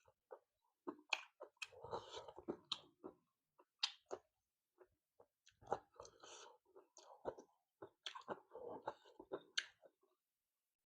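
Close-miked chewing: soft wet mouth smacks and clicks of a person eating fish curry and rice, coming in irregular clusters with a short lull about halfway through.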